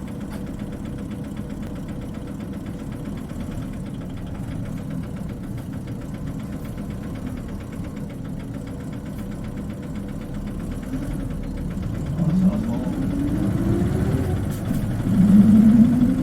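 Isuzu Cubic KC-LV380N city bus's diesel engine idling, heard from inside the bus. About twelve seconds in it revs up as the bus pulls away, the pitch rising with the high-pitched note this bus is known for on starting off. The pitch dips briefly at a gear change, then climbs again louder.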